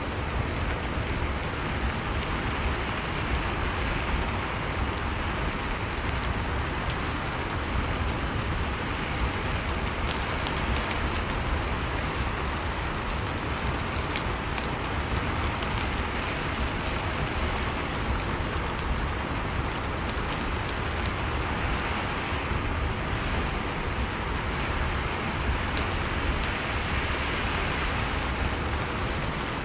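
Steady rain falling, an even hiss of rain on surfaces with scattered faint drop ticks.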